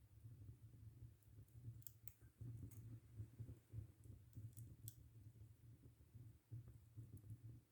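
Faint wood fire burning: a low, fluttering rumble of flames with sparse sharp crackles, a few about two seconds in and a couple more near five seconds.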